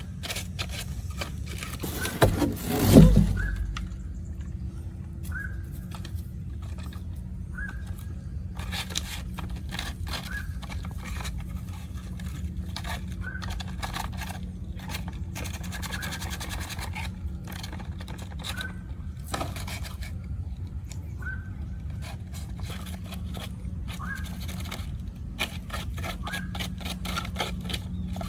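Repeated scraping strokes by hand, one every second or two, over a steady low hum, with one loud thump about three seconds in.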